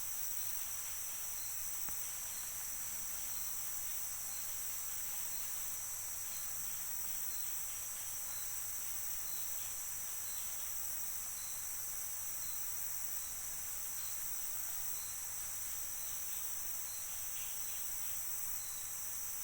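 Steady, high-pitched insect chorus of crickets or cicadas, with a short high note repeating about once a second.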